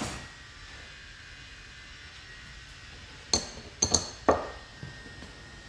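Metal tools and engine parts clinking and clanking against each other: one clink at the start, then a quick run of four ringing clinks between about three and four and a half seconds in.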